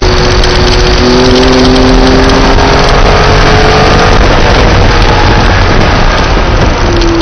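Porsche engine heard from inside the car, pulling and slowly rising in pitch as it accelerates along the track, under loud, dense wind and road noise.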